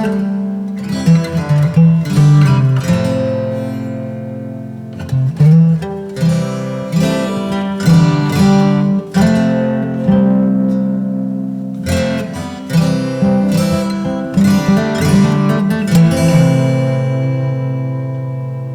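Instrumental acoustic guitar music of picked notes and strummed chords. Near the end it settles on one chord that rings and slowly fades.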